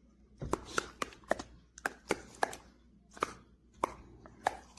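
A dozen or so sharp taps or clicks in an uneven rhythm, starting about half a second in.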